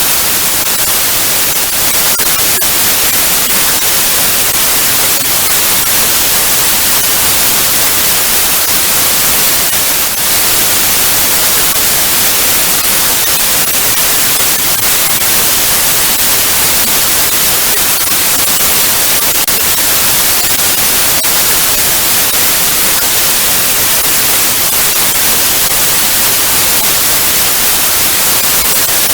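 Analogue TV static: a loud, steady hiss, strongest in the high end, with no pattern or change.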